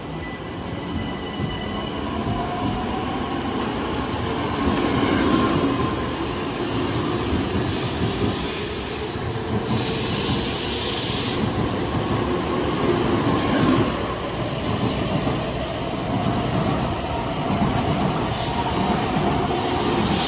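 N700S Shinkansen train pulling out of the station and accelerating past on the platform track. Its motor whine rises slowly in pitch, and the wheel and rail noise grows louder as the train picks up speed.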